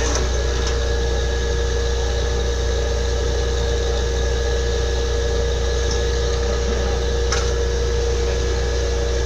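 Borewell drilling rig running steadily: a continuous low engine hum with a constant tone and a hiss of machine noise, and a few faint clicks.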